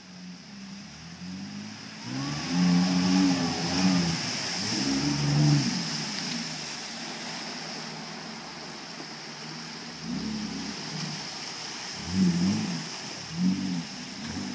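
Suzuki 4x4 truck's engine revving up and down in a series of blips, about two seconds in and again near the end, over a steady hiss.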